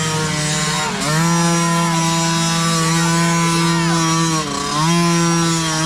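Small youth dirt bike engine held at high revs with a steady high note, dropping briefly and climbing back about a second in and again about two-thirds through. Other bikes' engines are faint behind it.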